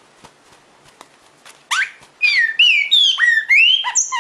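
Red-crested cardinal giving a rapid run of sharp whistled calls, some sweeping down and some up in pitch, starting a little under two seconds in; the bird is agitated, biting the hand that holds it.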